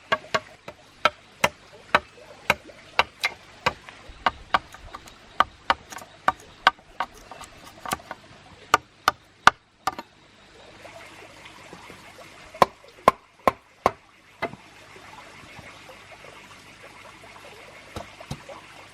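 A run of sharp knocks, about two to three a second, that stops about halfway through. A steady hiss follows, broken by a few more knocks.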